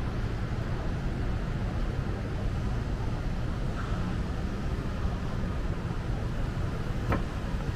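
Steady low rumble of city street ambience, with one short click about seven seconds in.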